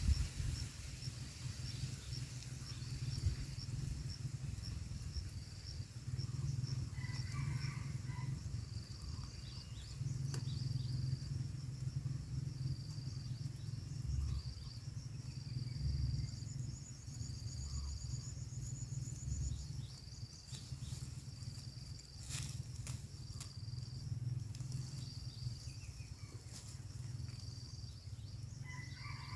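Insects chirping in a steady high-pitched pulsing rhythm, with a higher trill joining for a few seconds past the middle, over a low rumble.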